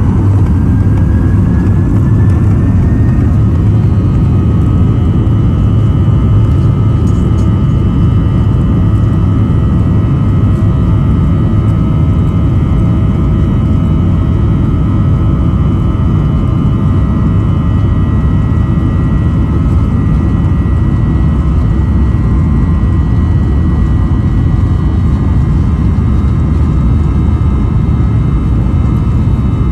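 Boeing 737-800's CFM56 jet engines running steadily, a heavy low rumble with several steady whine tones over it. One whine rises in pitch during the first few seconds.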